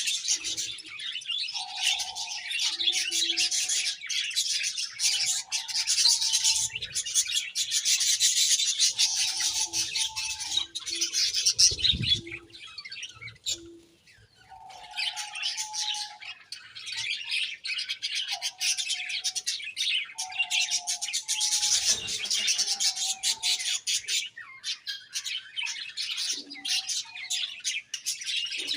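A flock of budgerigars chirping and warbling continuously, with a short lull about halfway through and a low thud a little before it.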